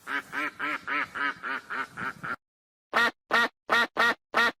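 Duck quacking: a quick run of about five quacks a second for the first two seconds or so, then, after a brief gap, louder single quacks at an even pace of about two or three a second.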